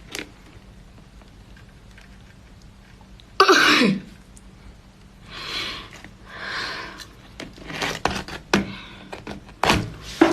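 A person's loud, short vocal outburst, falling in pitch, about three seconds in, then two breathy rushes and scattered clicks and taps.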